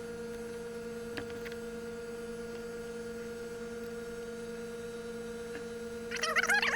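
A steady electrical hum made of a few fixed tones, with a faint click about a second in; near the end, quick high warbling chirps begin over it.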